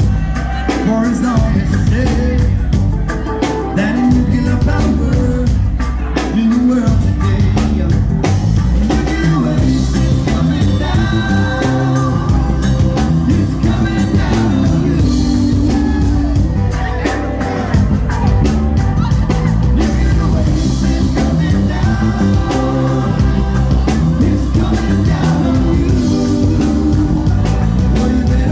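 A band playing a song with a singer over a steady drum beat.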